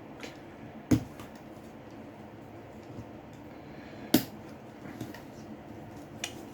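Small sharp clicks and taps of tools and parts being handled during a smartphone repair: two louder taps about a second in and about four seconds in, with a few fainter clicks, over a steady low background hum.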